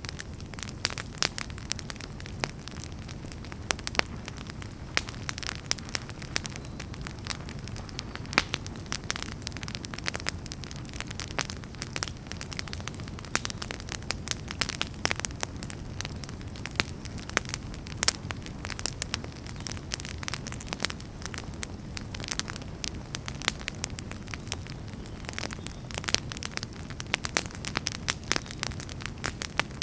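Wood fire burning with frequent sharp, irregular crackles and pops over a steady low rumble of flame.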